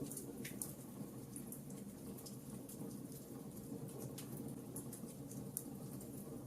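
Wood fire burning, with many small irregular crackles and snaps over a steady low rumble.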